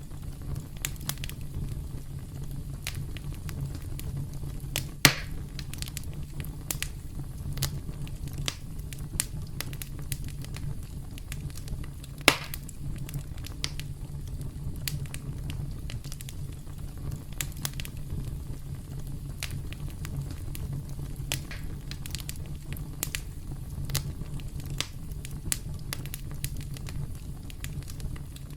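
Campfire crackling: frequent small pops and snaps over a steady low rumble of the burning wood, with two louder pops about five and twelve seconds in.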